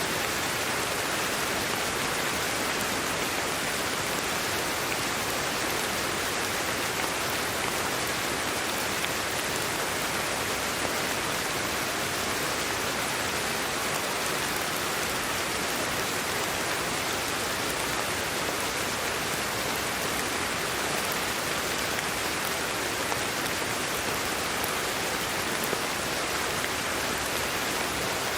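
Steady sleep-aid white noise: an even hiss, strongest in the middle and upper range, that does not change.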